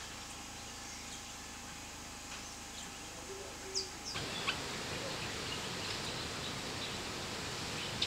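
Outdoor bird sounds: scattered short chirps and calls over a steady background hiss. About four seconds in the background gets suddenly louder and fuller, as at an edit.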